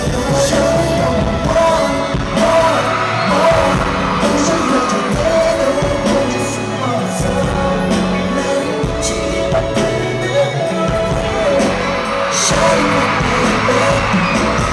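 Live pop concert music: a sung melody over a band or backing track with heavy bass and a steady drum beat, loud and boomy as heard from the audience.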